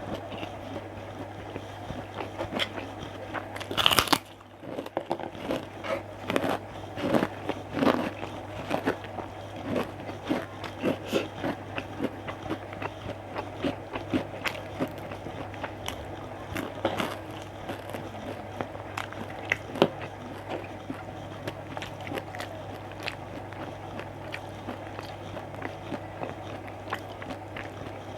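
Close-miked chewing and crunching of food, in many quick irregular crunches with a louder burst about four seconds in, over a steady low hum.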